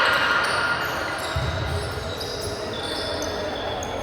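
Indoor volleyball court during play: sneakers squeaking on the court floor in short high chirps, and a dull thud of the ball about a second and a half in, over the echoing din of the hall.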